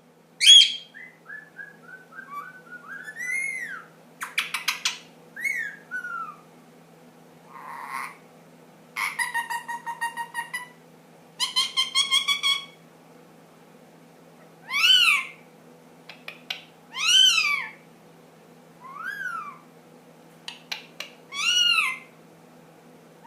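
Indian ringneck parakeet whistling and making mimicked noises: a falling run of short whistled notes, several fast rattling click trains, then rise-and-fall whistled calls about every two seconds.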